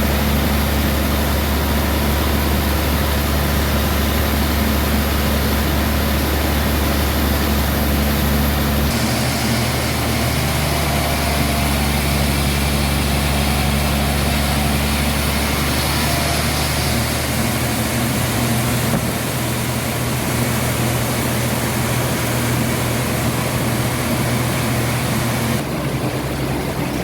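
Sawmill machinery running steadily: a low engine-like hum with a haze of mechanical noise, which changes abruptly a few times.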